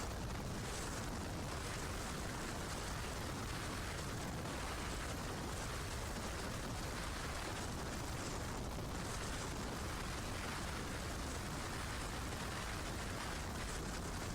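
Steady rush of wind buffeting the microphone over the drone of a boat's twin Suzuki outboard engines and the hull running through the water, with a constant low rumble.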